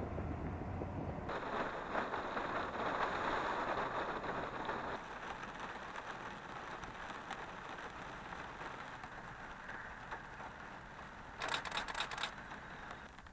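Rain falling steadily during a thunderstorm, louder in the first few seconds and then easing, after the low rumble of thunder dies away about a second in. A brief crackle sounds near the end.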